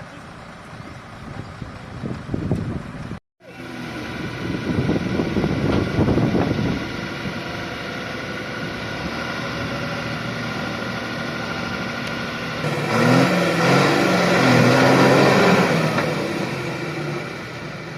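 Heavy vehicle engine straining to pull a lorry out of deep mud. It runs steadily, cuts out abruptly about three seconds in, then revs harder, with the pitch stepping up and down, for a few seconds near the end.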